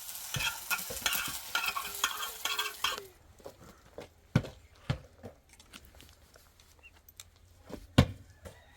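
A sizzling, crackly hiss for about three seconds that cuts off abruptly, followed by scattered knocks and clicks, with two loud knocks, one of them near the end.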